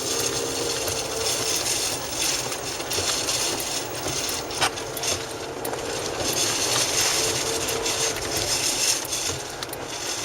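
Steady rushing roar of strong wind, flickering with gusts, with a faint steady hum underneath.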